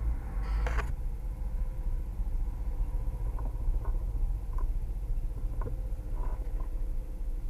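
Steady low rumble, with a brief sharp call about half a second in and several faint short chirps scattered through the rest, from monk parakeets at their nest.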